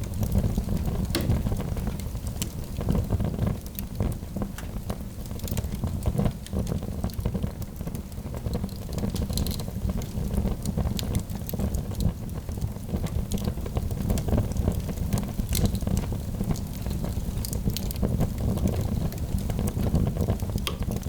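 Log fire burning in a fireplace: scattered sharp crackles and pops over a steady low rumble.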